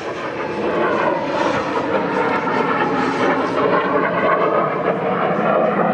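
Jet noise from the Cessna A-37 Dragonfly's two turbojet engines: a steady rushing sound that grows louder over about the first second and then holds.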